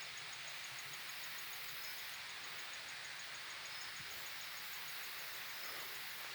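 Forest ambience: a steady faint hiss with an insect calling in a fast, even high pulse, about six beats a second.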